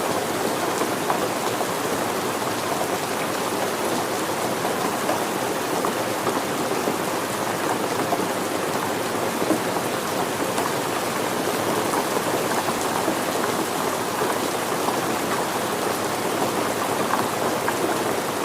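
Steady rain falling, a dense even patter of many drops striking surfaces.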